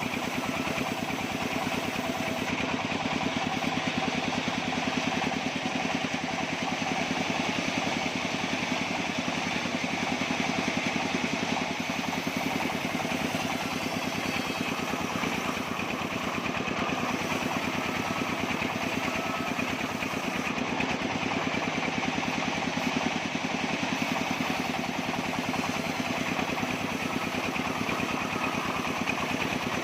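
Engine of a small bandsaw sawmill running steadily, with a fast, even firing rhythm that does not let up.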